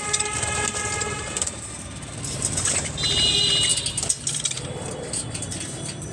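A train horn sounds as one steady held tone for about the first second and a half over a continuous low rumble of a passing train, with a short high-pitched call about three seconds in.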